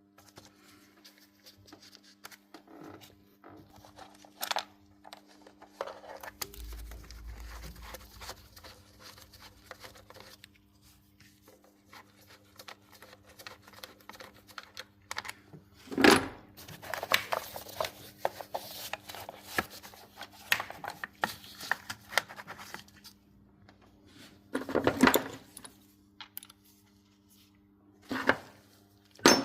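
Scattered clicks, scrapes and clatter of hard objects being handled, loudest about midway and twice near the end, over a steady low hum.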